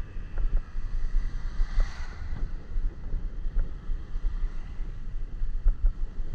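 Wind buffeting the microphone of a moving motorcycle, a gusty low rumble over the road and engine noise, with a brief rushing swell about two seconds in.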